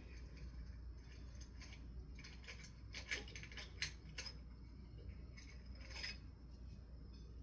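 Faint clinks and light rattles of small metal and glass parts being handled as the glass shades are taken off a ceiling fan's light kit, with a few sharper clicks around the middle over a low steady hum.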